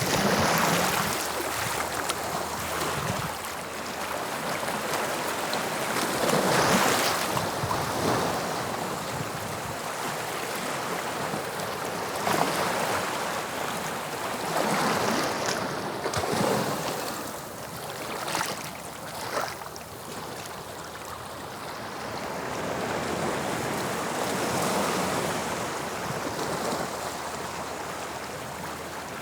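Sea waves breaking and washing up on the shore, swelling and ebbing every few seconds, with some wind on the microphone.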